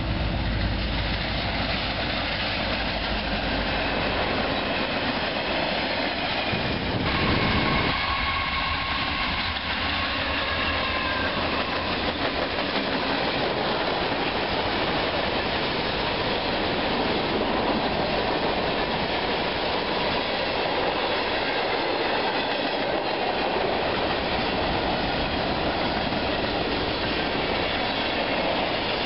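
Freight train passing close by: diesel locomotives followed by a long string of freight cars rolling past on the rails, a continuous steady rumble and rattle of wheels and cars.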